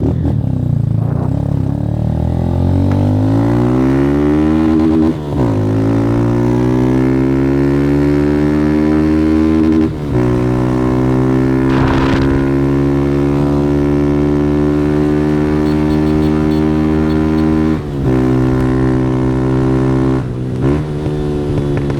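Single-cylinder 160 cc motorcycle with a Fortuna Trioval aftermarket exhaust, accelerating hard through the gears. The engine note climbs, dips briefly at each of four upshifts, then climbs again.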